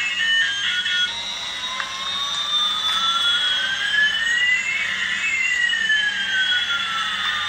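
Music stops about a second in, giving way to a cartoon jet aeroplane sound effect: a steady engine hiss with one whine rising and another falling in pitch, crossing each other about five seconds in.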